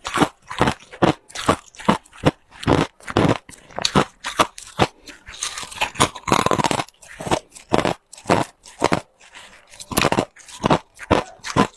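Person biting and chewing hard ice cubes close to the microphone: a quick run of sharp, loud crunches, about two to three a second, easing briefly about two-thirds of the way through.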